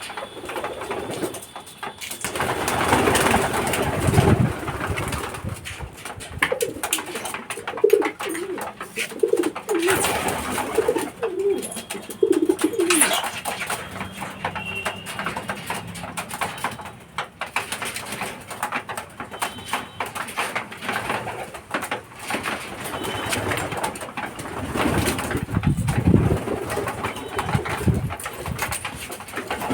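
Racing pigeons cooing: a run of short low coos in the middle, among scattered clicks and rustling from the birds.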